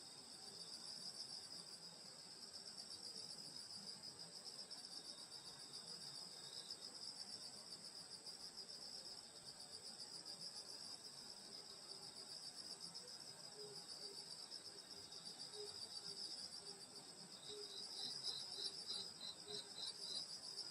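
Night chorus of crickets and other grass insects, a continuous high pulsing trill, with a short run of evenly spaced chirps from another insect near the end.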